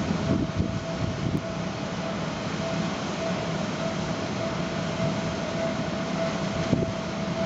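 Seibu 9000 series electric train approaching along the rails: a steady rumble that holds at an even level, with a thin high tone running through it.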